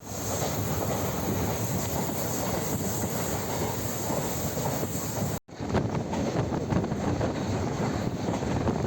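Train running along the track, a steady rumble with rattling wheel clatter. It breaks off for a moment about five and a half seconds in, then goes on with denser clicking.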